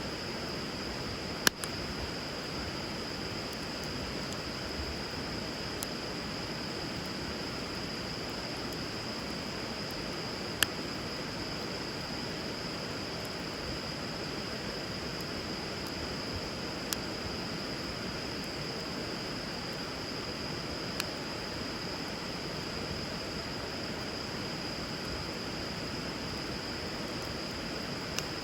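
Wood fire burning over a river: steady rushing of flowing water with a few sharp single pops of the burning wood, the loudest about a second and a half in and again about ten seconds in. A steady high-pitched tone runs under it.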